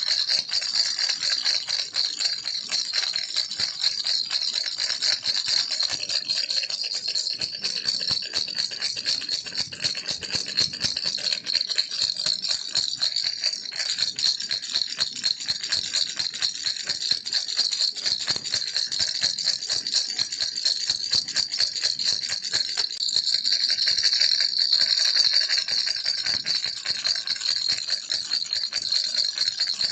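Baby rattle shaken without a break, a dense, fast clatter of small beads, slightly louder a little past two-thirds of the way through.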